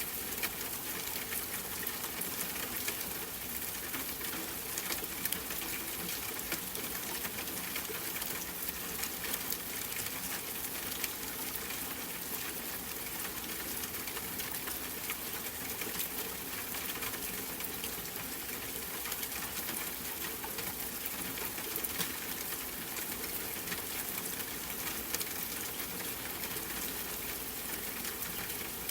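Steady rain falling: an even hiss thick with many small drop ticks, keeping the same level throughout.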